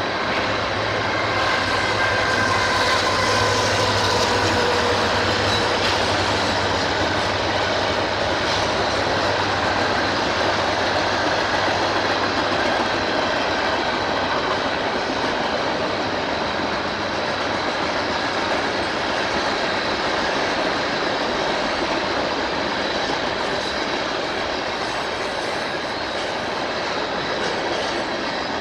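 A train passing at close range: a low engine hum in the first several seconds, then a steady rumble and clatter of wheels on the rails as the cars roll by.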